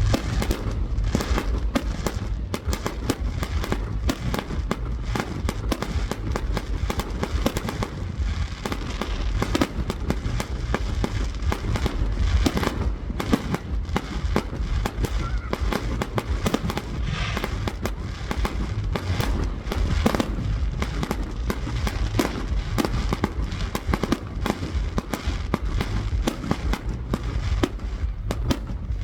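Fireworks display: a dense, continuous barrage of cracks, pops and booms with a steady low rumble under them.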